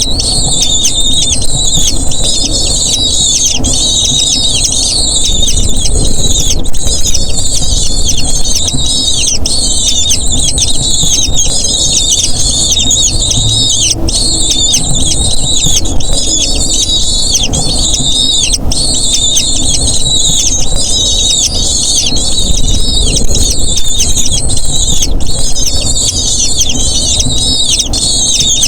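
Eagle chicks' begging calls: rapid, overlapping high-pitched squeals, continuous and loud, over a low rumble.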